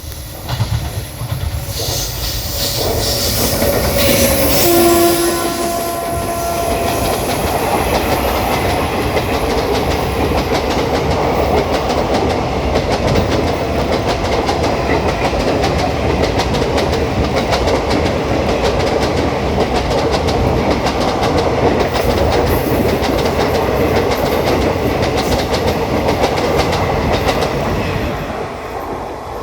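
A WAG-9HC electric locomotive's horn sounds briefly a few seconds in. The passenger train then runs through at speed, its wheels clattering rapidly over the rail joints in a loud, steady roar that eases a little near the end.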